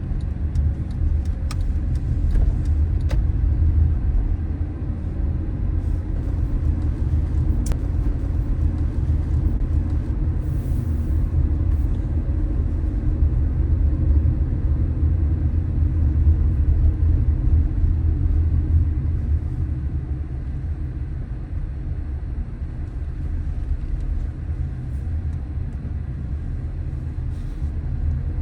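A car driving along a city street: a steady low rumble of engine and road noise, with a few faint clicks in the first several seconds.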